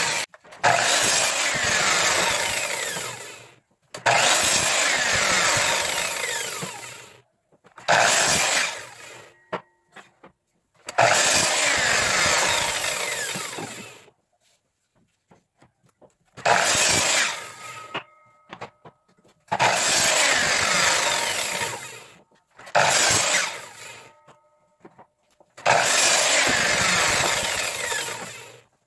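Power saw making a series of short cuts through wooden boards, about eight in all. Each cut starts suddenly, then fades and falls in pitch as the blade winds down, with short pauses between cuts.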